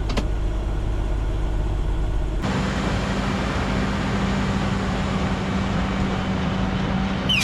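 A heavy diesel truck engine running steadily. About two and a half seconds in the sound changes abruptly to louder, noisier engine and road noise with a steady hum, and it ends with a short sharp hiss.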